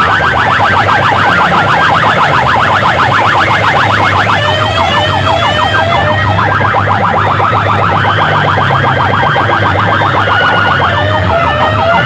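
Electronic siren effect played very loud through a sound-box loudspeaker rig: a fast, repeating warble of short sweeping tones, over a steady low drone.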